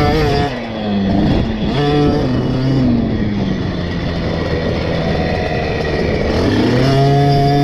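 KTM 50 SX two-stroke single-cylinder minibike engine ridden on track: held at high revs, then off the throttle about half a second in with the pitch falling, a short blip near two seconds, lower revs through the middle, and opened up again near the end, climbing back to high steady revs.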